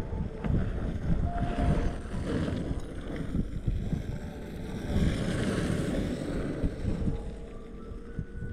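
Strong wind buffeting the microphone in gusts, over the rumble of surfskate wheels rolling on asphalt.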